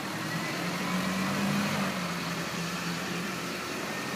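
A car engine running steadily. Its hum rises a little in pitch early on, then holds level.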